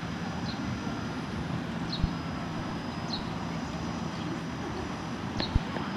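Japanese white-eyes giving short, high call notes, one every second or so, over a steady low rumble, with two brief low thumps about two seconds in and near the end.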